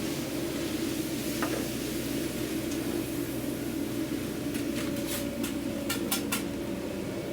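Steady hum of a fan-driven machine in a food truck, such as the exhaust hood fan or air conditioner, with a few short clatters, like containers or utensils being handled, about five to six and a half seconds in.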